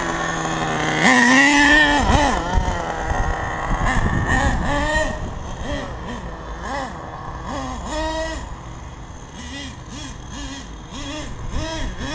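Nitro engine (RB MT10, 4.6 cc) of an HPI Savage 1/8 RC monster truck, revving up hard about a second in, then blipped up and down over and over as the throttle is worked.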